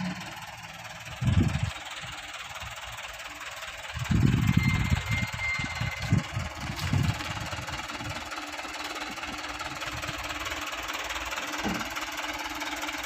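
Small diesel dump truck's engine running, with heavy low thumps about a second in and a run of them between four and seven seconds in. A brief high squeal comes around four and a half seconds in.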